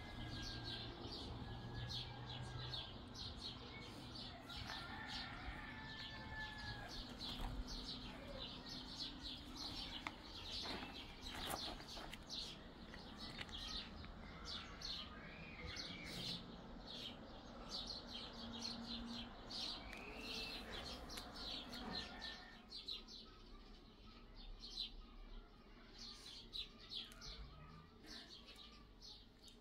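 Small birds chirping, a quick run of short high chirps that goes on throughout, over a faint low background that drops away about three-quarters of the way through.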